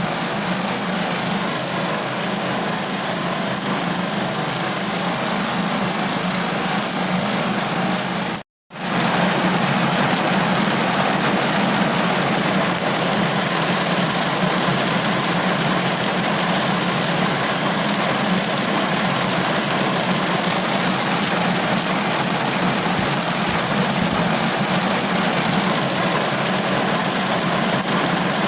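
Steady heavy rain falling on a car roof, heard from inside the car. The sound cuts out for a split second about eight seconds in and comes back slightly louder.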